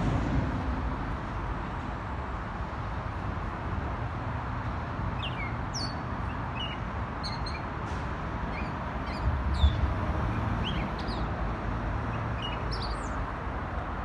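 A songbird calling in the trees: a run of short, high chirps that slide downward, repeated every second or so from about five seconds in, over a steady low background rumble. A brief low thump comes a little before ten seconds.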